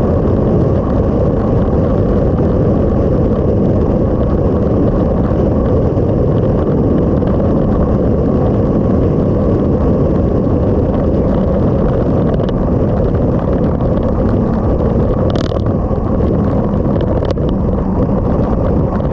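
Motorcycle on the move at a steady pace: engine and heavy wind rumble on the microphone. A brief high tone sounds about fifteen seconds in.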